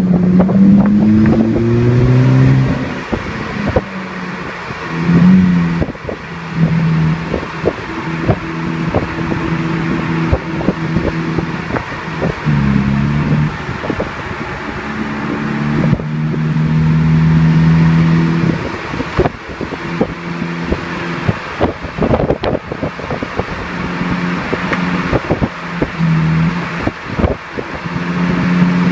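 2009 Chevrolet Cruze engine running through an aftermarket Friedrich dual exhaust, revved repeatedly: the pitch climbs in the first couple of seconds, then revs are held steady in several stretches of a few seconds each and drop back between them.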